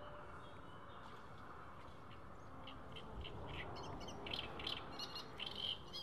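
Small birds chirping in quick, repeated short calls, starting about halfway through and growing busier toward the end, over a steady low outdoor rush.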